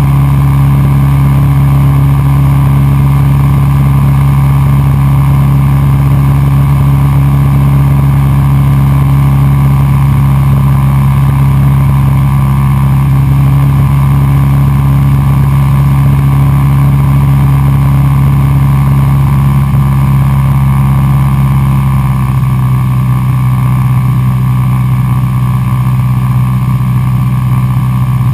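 Cessna 172SP Skyhawk's four-cylinder Lycoming engine and propeller droning steadily in flight. About two-thirds of the way through, the pitch drops slightly and it gets a little quieter, as with a small power reduction.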